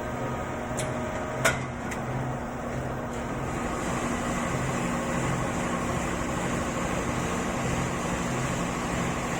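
Automatic air filter paper pleating machine running: a steady mechanical hum with a low throb repeating about one and a half times a second. A single sharp click about one and a half seconds in.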